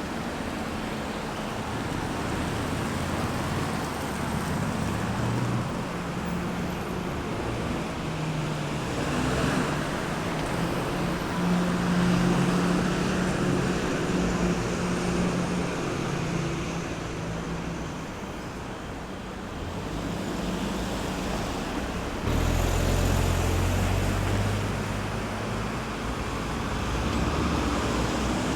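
Road traffic at a roundabout: cars and buses passing with a steady wash of tyre and engine noise. About 22 seconds in, a heavier vehicle's low engine drone comes up loud and then eases off.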